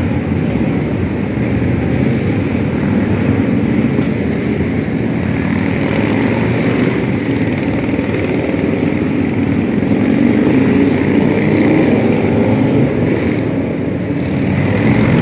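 Engines of a large group of motorcycles, a steady loud mass of engine rumble as the procession rides past.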